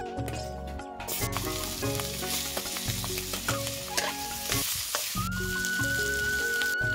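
Food frying and sizzling in a hot pan, starting about a second in, with the light clicks of stirring, over background music.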